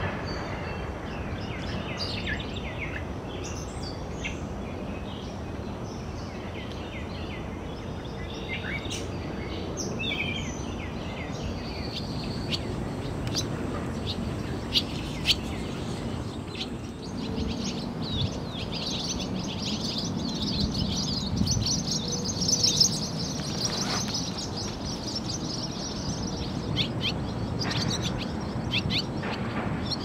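Wild birds chirping and calling over a steady low background rumble of outdoor noise; the calls thicken into near-continuous chatter in the second half. Two sharp ticks come about halfway through.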